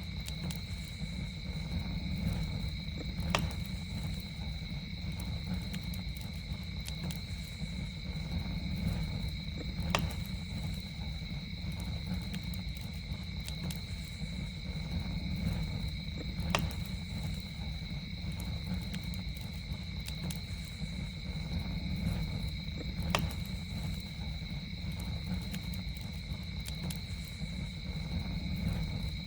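Campfire burning with a steady low rumble of flames and sharp crackling pops about every six and a half seconds, over a steady high-pitched drone of night insects.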